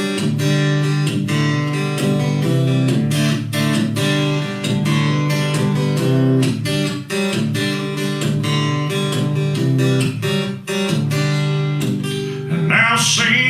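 Acoustic guitar strummed in chords, playing the instrumental opening of a country song. A man's singing voice comes in near the end.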